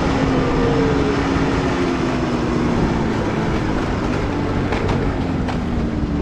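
A vehicle engine running steadily, its pitch slowly falling, under a constant rushing noise.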